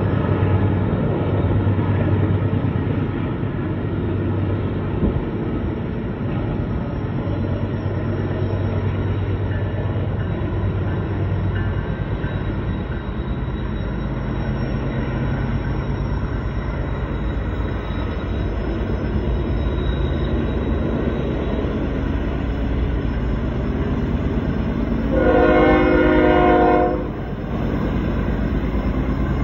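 Double-stack intermodal freight cars rolling past, a steady rumble of wheels on rail. About 25 seconds in, a multi-tone locomotive horn sounds one blast of about two seconds.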